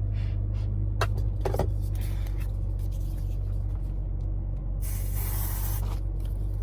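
Aerosol spray hissing onto an armpit in one burst of about a second, near the end, after two light clicks about a second in. A steady low hum runs underneath.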